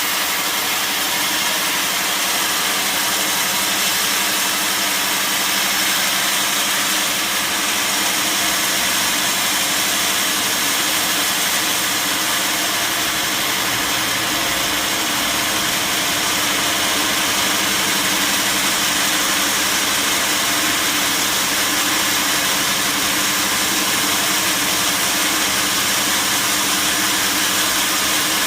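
Sawmill saw running steadily: a constant machine hum under a loud, even high hiss, with no change in level.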